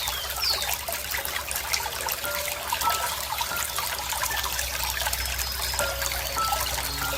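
Running water trickling and babbling in a steady, dense patter. A bird gives two short, high chirps that fall in pitch right at the start.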